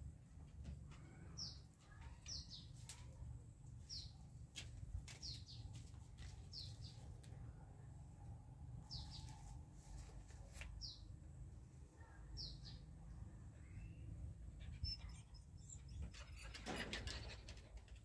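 A small bird calling with short, high chirps that slide downward, one every second or two, over a faint low background rumble. A brief rustle comes near the end.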